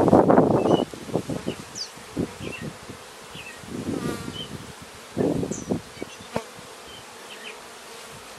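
Honeybees buzzing around an opened hive, swelling loudest at the start, about four seconds in and again just past five seconds. Small birds chirp faintly in the background.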